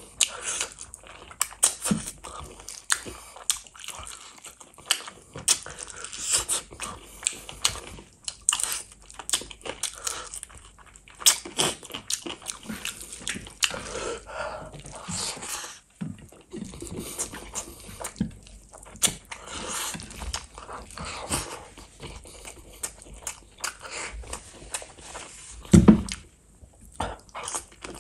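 Close-up mukbang eating sounds: a person biting and chewing spicy chicken feet and gravy-soaked rice, with dense, irregular wet clicks and crunches. A heavy low thump about 26 seconds in is the loudest sound.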